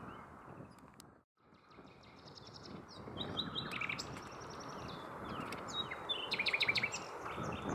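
Common nightingale singing: varied phrases of whistles and trills, with a fast run of repeated notes near the end, over a low background rush. The sound drops out briefly about a second in.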